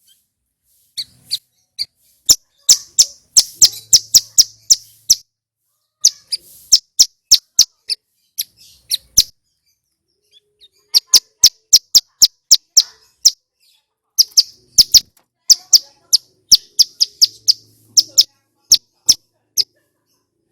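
Male bar-winged prinia (ciblek gunung) singing loud, clear song. The song comes as runs of rapid, sharp, high notes, several bursts of them with short pauses between.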